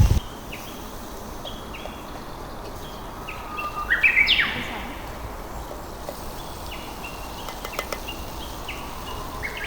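Birds calling in the trees: repeated short, falling whistled notes, with a louder burst of notes about four seconds in.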